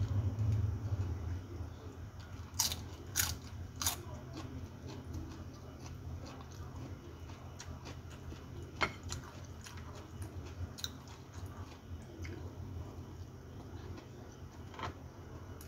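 A person chewing a rice meal close to the microphone, with three sharp crunches between about two and a half and four seconds in and a few single ones later. A steady low hum runs underneath.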